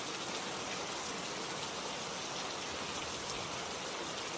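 Steady heavy rain falling, an even hiss of many drops with no distinct strokes.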